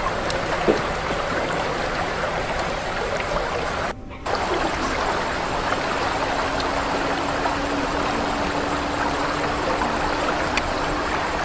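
Steady rushing of running water, with a few faint clicks; it drops out briefly about four seconds in.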